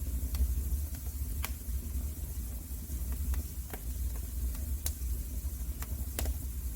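Wood fire crackling in a fireplace: sharp pops about once a second over a low rumble and a steady hiss.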